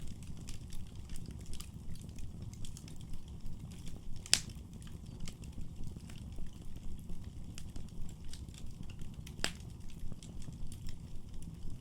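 Wood fire crackling in a fireplace over a steady low rumble of flames, with many small ticks and two loud sharp pops, about four and nine seconds in.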